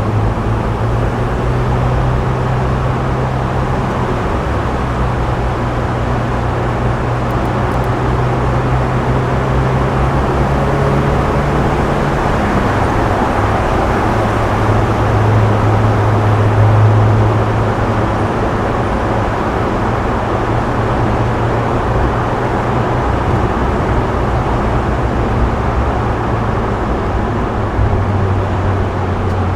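Subaru Impreza WRX STI Spec C's turbocharged flat-four engine and A-RM aftermarket exhaust cruising at expressway speed: a steady low engine drone under tyre and road noise. The engine note drops a little in pitch about halfway through, then swells louder for a couple of seconds.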